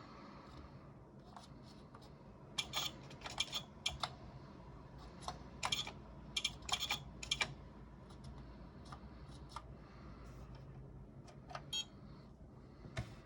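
Keys being typed on the keyboard of a Kontur 8020 (Korvet 8020 clone) computer: irregular clicks in quick runs through the first half, then a few single key presses, over a steady low hum.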